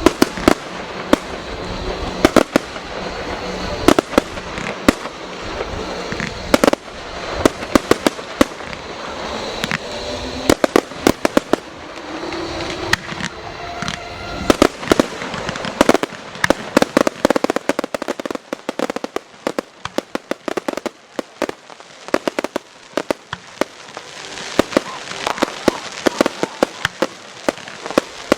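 Fireworks display: a dense, irregular barrage of sharp bangs and crackles, many in quick clusters, going on throughout.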